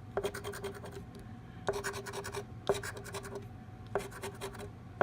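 Texas Lottery scratch-off ticket being scratched, quick rasping strokes in short bursts about a second apart as the coating is rubbed off to uncover numbers.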